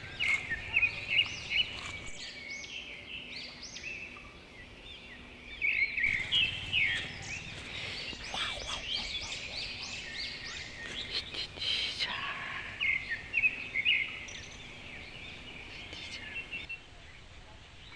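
Small birds chirping, many short high-pitched calls overlapping in busy flurries, with lulls between them and fewer toward the end.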